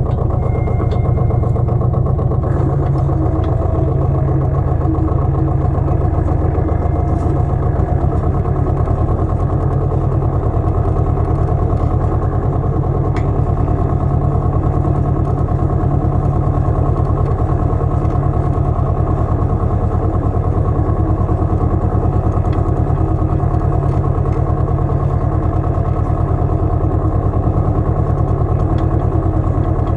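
Pasquali 980 EX compact tractor's engine running steadily at an even speed.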